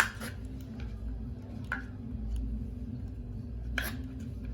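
A few knocks and rustles from food and containers being handled while a fridge is packed, the loudest near the end, over a steady low hum.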